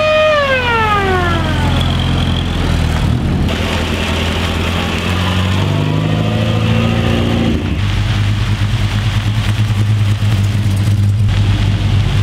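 Classic cars driving slowly past on a gravel drive. A siren winds down in the first second or so; a small engine, the Morris Minor Traveller's four-cylinder, revs up around the middle; and a deeper engine with a fast pulsing beat runs through the last few seconds.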